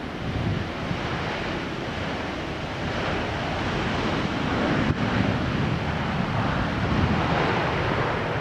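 Steady rushing roar of a jet airliner, strongest in the low end, slowly growing louder.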